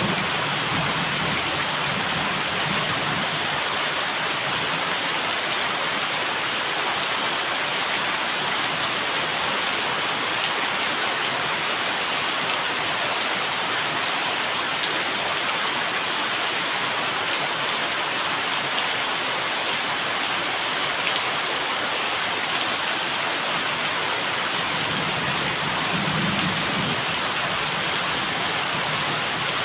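Steady, heavy rain pouring down in a dense, even hiss, with a soft low rumble near the start and again near the end.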